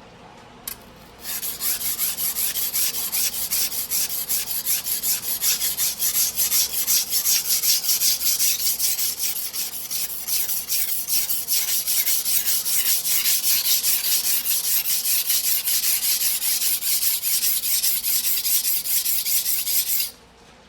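Single-bevel sujihiki knife blade being stroked back and forth by hand on a whetstone: quick, even scraping strokes, about three a second. It starts about a second in, after one click, and stops suddenly near the end.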